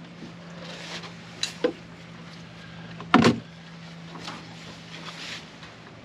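Two light knocks, then a louder bang about three seconds in, over a steady low hum.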